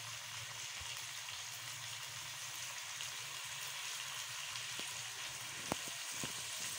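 Chicken, green peas and chopped tomatoes sizzling in oil in a karahi with a steady, even hiss while they are fried. A faint tick comes near the end.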